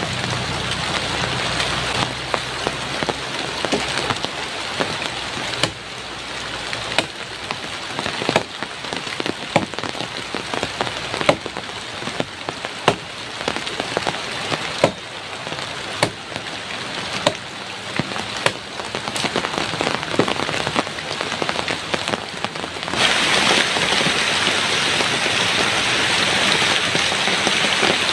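Heavy rain falling, with many sharp drop hits on a hard surface through a steady hiss; the downpour grows louder about five seconds before the end.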